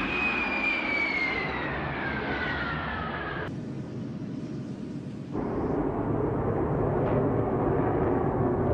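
Jet airliner engines: a high whine falling steadily in pitch over about three seconds, then after an abrupt cut a louder, steady jet rush.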